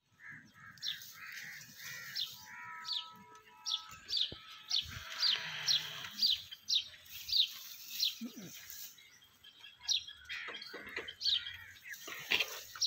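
Birds chirping: a quick series of short, high, falling chirps, roughly two a second, that pauses for a few seconds and then starts again, with softer calls behind them.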